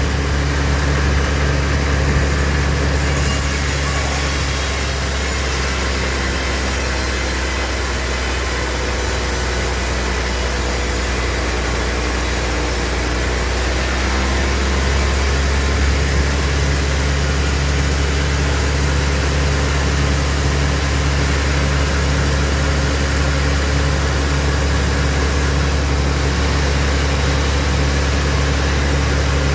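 Band sawmill running steadily, a constant low machine hum with several steady tones. A bright hiss joins it at the top from about three seconds in until about fourteen seconds.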